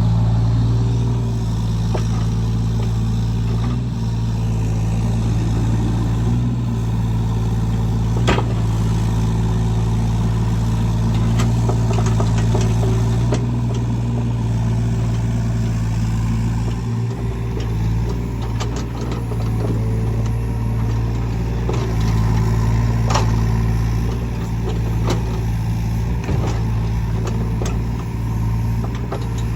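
Diesel engine of a piece of earthmoving equipment running steadily at an even speed, with scattered sharp knocks and clanks.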